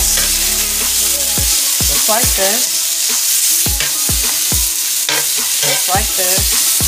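Chopped sausage, onions, peppers and mushrooms sizzling on an electric griddle as they are tossed and stirred with a slotted metal spatula. The sizzle is a steady hiss.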